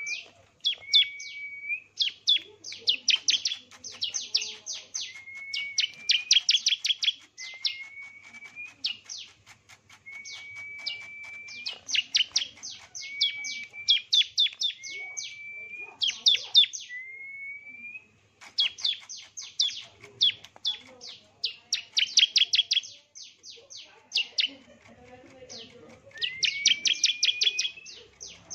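A songbird singing phrase after phrase. Each phrase opens with a short whistle that rises slightly at the end, then breaks into a fast run of sharp, high chips. There are a couple of brief pauses.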